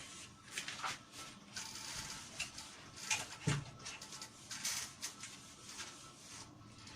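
A pen writing: short, irregular scratchy strokes, with a soft low thump about halfway through.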